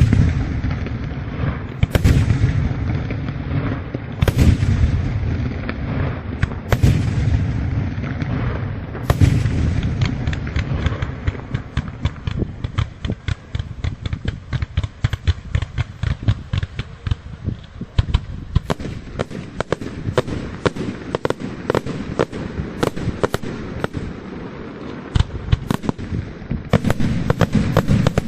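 Aerial fireworks display: shells bursting with heavy booms every couple of seconds, then a long run of rapid crackling reports, with big booms returning near the end.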